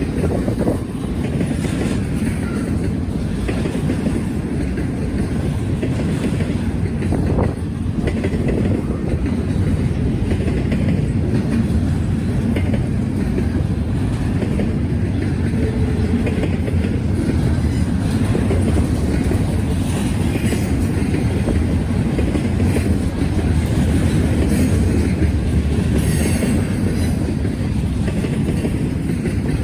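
Freight train rolling past, a steady rumble of railcars with occasional clicks from the wheels.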